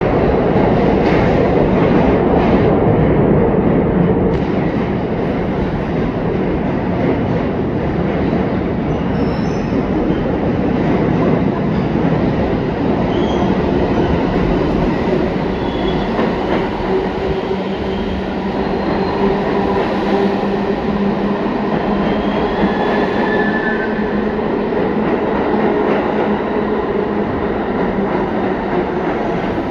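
R46 New York City subway train running through the station: a steady loud rumble, loudest in the first few seconds, with faint short wheel squeals. From about halfway through, a steady low hum runs under it.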